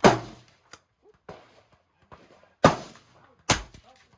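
.22 LR rifle shots: three sharp reports, one right at the start, one about two and a half seconds in and another under a second after that, with fainter pops in between.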